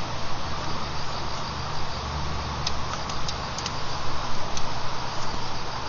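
Outdoor ambience with autumn insects chirping over a steady low rumble of distant traffic. A few short high ticks sound in the second half.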